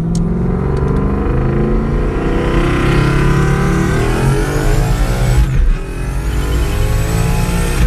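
Single-turbo Coyote 5.0 V8 in a 2017 Mustang on E85 accelerating hard through the gears, engine pitch climbing with a high turbo whistle rising alongside. About five and a half seconds in there is a brief dip at a gear change, then the engine pulls and climbs again.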